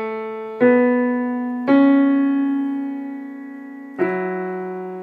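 Piano notes played one at a time on a keyboard, each struck and left to ring and fade slowly: one rings on from just before, then new notes come about half a second in, near two seconds, and at four seconds.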